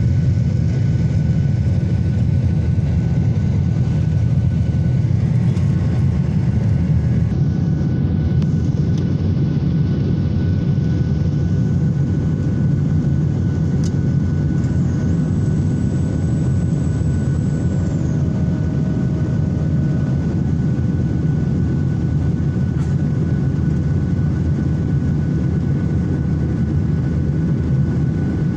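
Steady low roar of an airliner's engines and airflow heard inside the passenger cabin in flight, with a thin steady whine above it.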